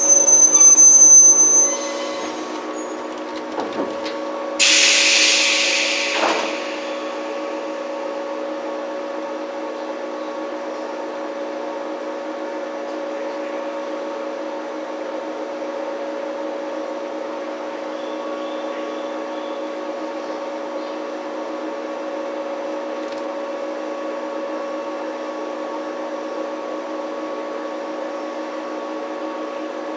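Inside a JR 115-series electric multiple-unit car: a high wheel and brake squeal dies away in the first two seconds, then comes a loud hiss of air lasting about two seconds. After that there is a steady electrical hum with a constant tone, and no rhythm of the wheels, as the train stands still.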